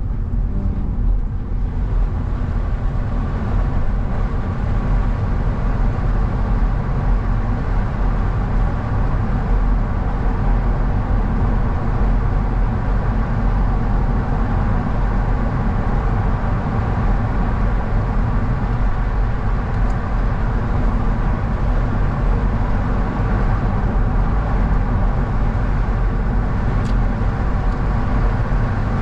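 A car driving at a steady pace: continuous engine and tyre-on-road noise, strongest in the low end, with no changes.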